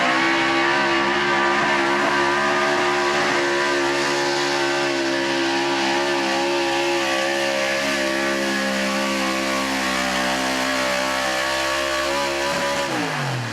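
A 4x4 truck's engine held at high revs, climbing at the start, staying steady for several seconds, then dropping away about a second before the end.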